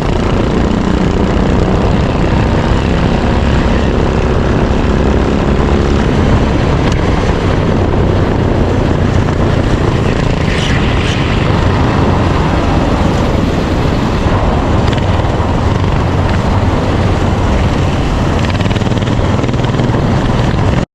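Racing kart engine running on track, heard from an onboard camera with heavy wind rush over the microphone.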